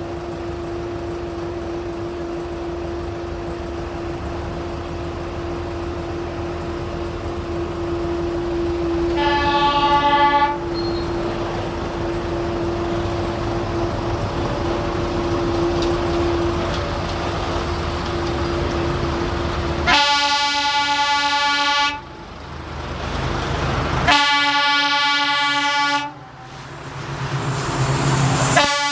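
Indian Railways express locomotive sounding its horn over the running rumble of the train: one short blast about a third of the way in, then two long blasts and a third starting near the end.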